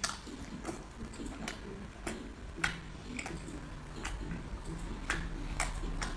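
A person eating braised chicken feet: sharp, wet mouth clicks and smacks from chewing and sucking, irregular, about two a second.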